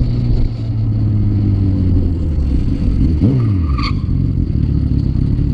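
Motorcycle engine running steadily, then revved up and back down once about three seconds in, with a short high-pitched chirp just after.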